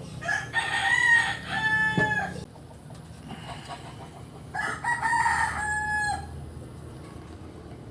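A rooster crowing twice, each crow about two seconds long and falling away at its end.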